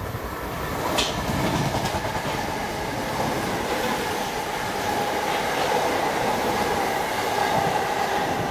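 Electric multiple-unit passenger train running through a station platform at speed without stopping: steady rumble and clatter of wheels on the rails with a sustained whine. The sound builds over the first second, with a sharp click about a second in, then holds steady as the carriages pass.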